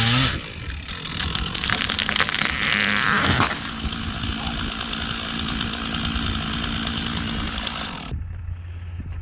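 Stihl 461 chainsaw running hard in a felling cut, then dropping away abruptly about eight seconds in, leaving only a low hum.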